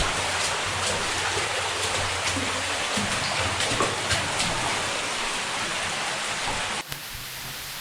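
Water dripping and trickling steadily in an underground mine passage, sounding like rain, with single drops falling now and then. About seven seconds in, it cuts off abruptly to a quieter, steady hiss.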